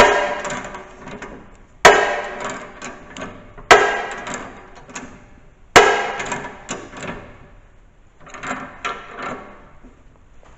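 Hammer blows on the metal parts of a snow plow mount: four hard strikes about two seconds apart, each ringing out, followed by a few lighter taps and knocks.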